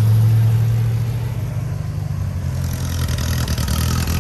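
Car engine running with a steady low hum, joined about two and a half seconds in by a rougher, rasping exhaust sound.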